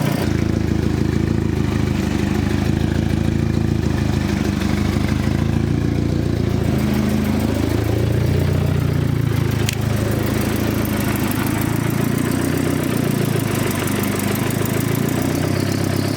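Turbocharged Chevy Cruze 1.8 four-cylinder idling, its pitch wandering up and down a couple of times. It is on an untuned setup that the owner says still needs a tune and is running a little rich. A single short click sounds about halfway through.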